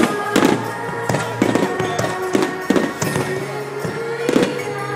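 Aerial firework shells bursting in a series of sharp bangs, over loud music of taiko drums and shamisen played in time with the display.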